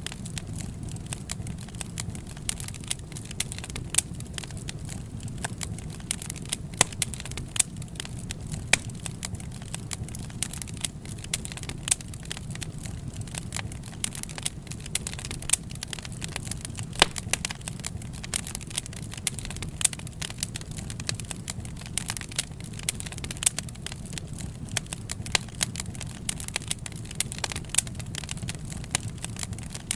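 Wood fire crackling: frequent, irregular sharp pops and snaps over a steady low rumble of burning.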